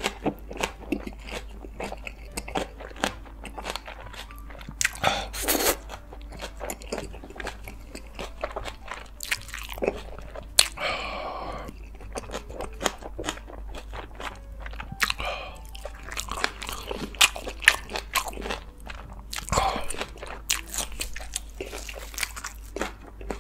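A person chewing a very full mouthful of food, with many sharp, wet mouth clicks and crunches.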